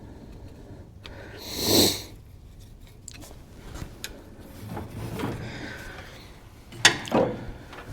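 A person sniffing loudly once, about two seconds in, then a sharp click and a knock near the end.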